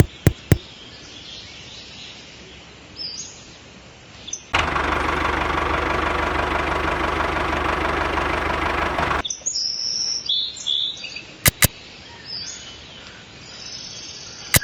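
Birds chirping against a quiet outdoor background, broken for about five seconds in the middle by a loud, steady running engine. A few sharp clicks come near the start, about two-thirds of the way in, and at the end.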